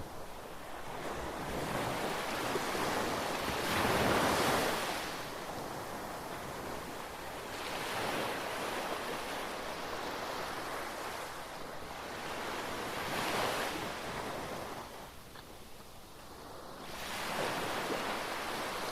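Ocean surf breaking on the beach, the wash of the waves swelling and fading every four or five seconds, with some wind on the microphone.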